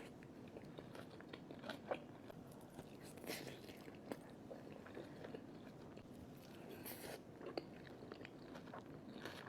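Faint, close-miked chewing and biting of egg foo young and fried rice: soft, wet mouth sounds broken by a few short, sharper bites, the clearest about two, three and seven seconds in.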